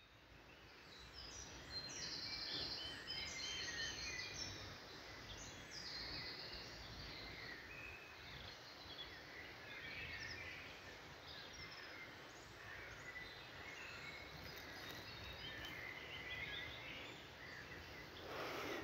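Songbirds chirping and singing over a steady outdoor background hiss, with the calls busiest in the first few seconds. A short rustle comes near the end.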